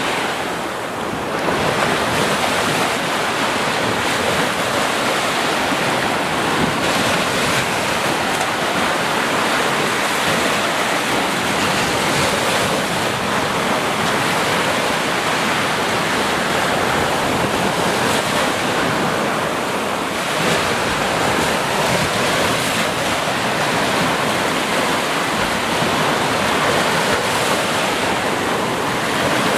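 Continuous rushing water, a dense steady wash with only slight swells in level.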